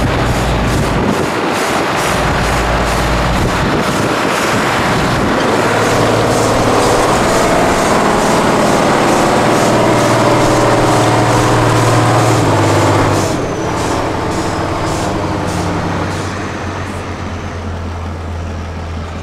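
Diesel engine of an 8x8 Tatra truck working hard on a truck-trial course, growing louder, then easing off about two-thirds of the way through and dropping further near the end.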